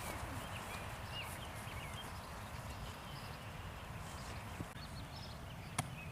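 Quiet outdoor ambience with faint, scattered short bird chirps over a steady background hiss, and one sharp click near the end.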